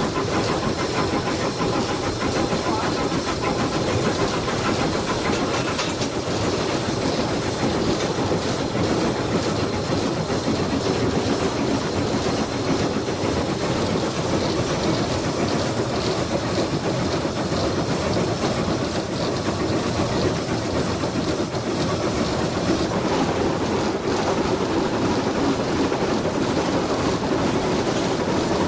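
GER N7 0-6-2 tank steam locomotive running with a train, a steady hiss of steam over the running noise of the train.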